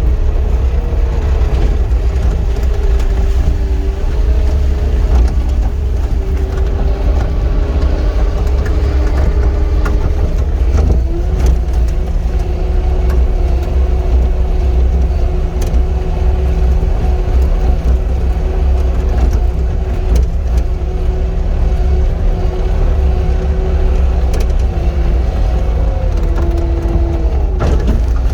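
Cat 259 skid steer running under load, heard from the operator's seat: a loud, steady low diesel rumble with a whine whose pitch shifts up and down several times as the machine works.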